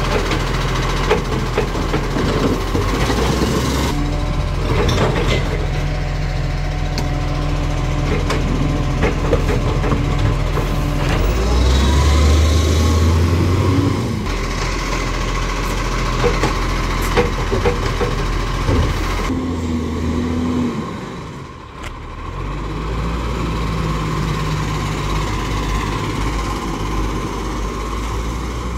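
Garbage truck engine running, its pitch shifting as the engine speed changes, with scattered knocks and clatter about four to six seconds in. The engine sound rises around twelve seconds in, and the level dips briefly near twenty-two seconds.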